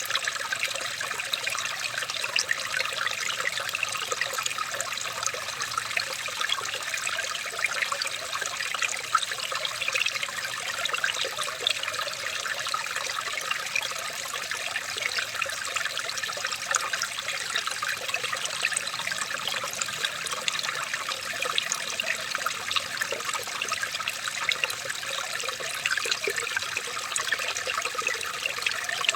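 Running water trickling and splashing steadily, full of many small splashes, with no change throughout.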